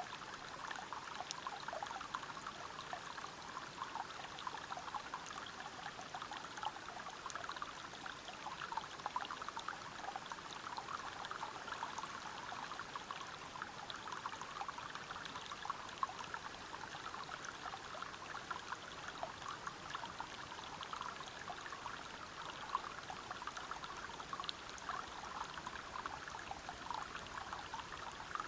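Stream water flowing and splashing over rocks: a steady rush, dense with small splashes.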